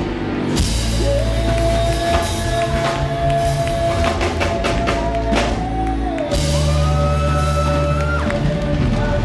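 Live worship band playing a rock-style song: drum kit and bass under long held melody notes that shift in pitch every couple of seconds.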